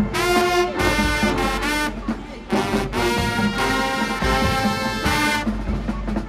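High school marching band playing its field show, brass section leading with trombones and trumpets over drums, in loud phrased blasts.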